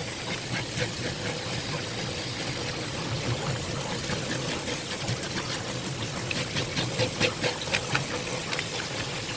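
Steady machine hum, with a quick run of short knife scrapes or taps on the fish and board about six to eight seconds in.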